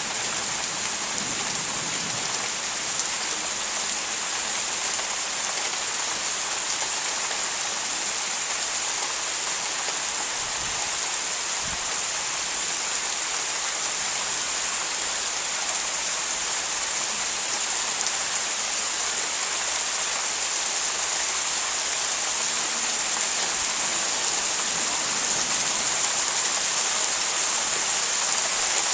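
Rain falling steadily in a thunderstorm, growing a little louder near the end.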